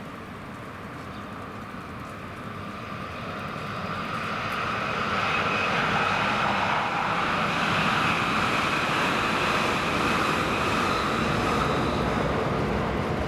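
Tsukuba Express train running past, growing louder about four seconds in and then holding a steady rumble with a faint whine over it.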